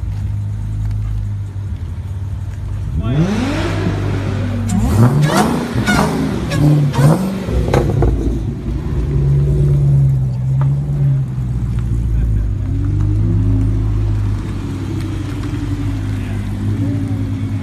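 Dodge Challenger Hellcat's supercharged 6.2-litre V8 with a muffler delete, idling and then revved hard several times in quick succession about three seconds in, before settling back toward idle with a few lighter blips.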